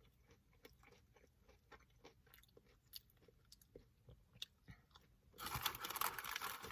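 Close-up chewing of a breaded jalapeño popper: faint crunchy clicks and mouth sounds. About five seconds in, a louder rustling noise sets in and lasts a second or so.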